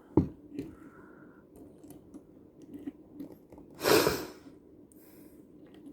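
Handling noise of small die-cast toy cars: a sharp knock just after the start and scattered light clicks as they are moved and set down, with one short rush of noise about four seconds in, the loudest sound.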